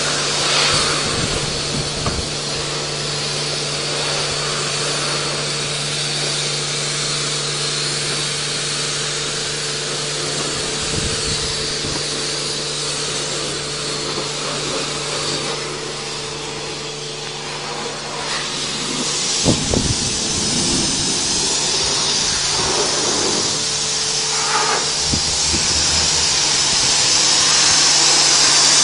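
Pressure-washer water spray at a car wash: a steady hiss over a constant low hum, with a few knocks about twenty seconds in and growing louder near the end.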